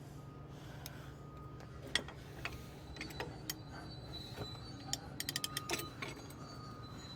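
Hand tools working a truck's wheel bearing adjusting nut as it is backed off: scattered metallic clicks, then a quick run of ratchet clicks about five seconds in. A steady low hum runs underneath.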